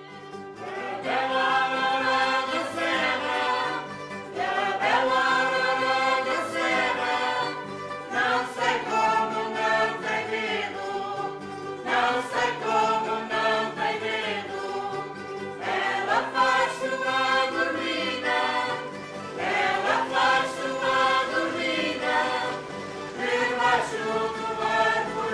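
A choir singing in phrases that begin every few seconds over a held low note.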